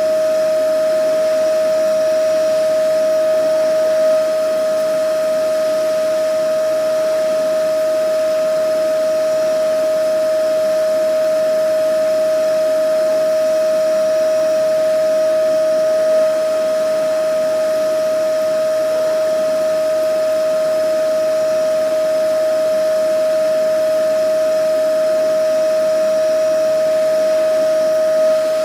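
Vacuum cleaner motor running steadily: a constant high whine over a rushing hiss, with a slight swell about every twelve seconds.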